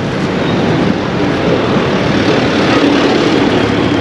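Airplane flying over, its engine drone growing louder over the steady noise of busy road traffic.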